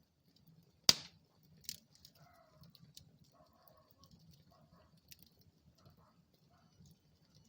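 Wood fire burning in a fireplace: a low steady rumble with scattered small crackles, a sharp loud pop about a second in and a smaller one just before two seconds.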